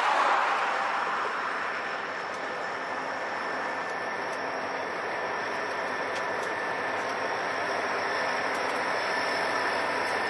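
Conrail freight train passing close by. The diesel locomotives are loudest just after the start, then the boxcars roll past in a steady rumble.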